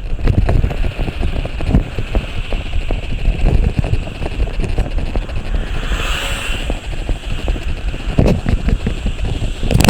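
Wind buffeting the microphone over the low rumble of a moving vehicle, with a swell of hiss about six seconds in and a sharp knock near the end.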